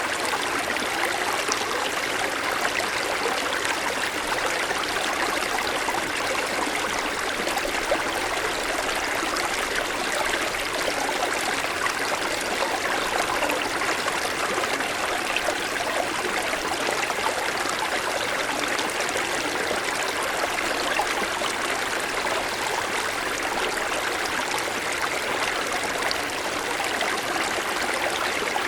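Small mountain stream flowing over snow-covered stones, a steady rushing and trickling babble.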